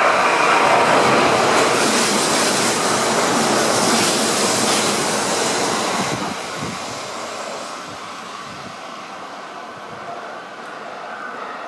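Kintetsu limited express electric train running past close by, a loud rush of wheel and running noise that fades from about six seconds in as it moves away.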